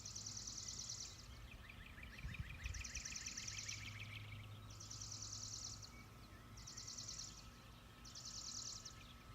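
Birds singing at dawn: a high, rapid trill about a second long, repeated every second or two, with a second, lower trill joining for a couple of seconds early on, over a low steady hum.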